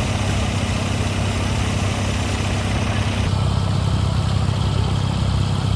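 An engine running steadily at idle, a low even drone; about three seconds in the sound changes abruptly to a different, deeper engine note.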